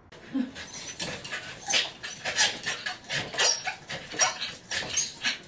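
A corgi yipping and whining over and over in short, excited calls, about three a second.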